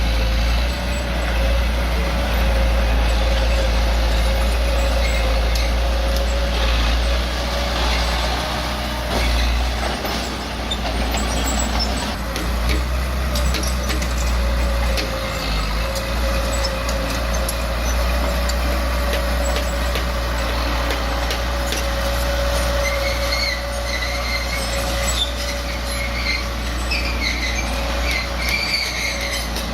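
Bulldozer's diesel engine running steadily, a low rumble with a constant whine, along with scattered metallic clanks and squeaks.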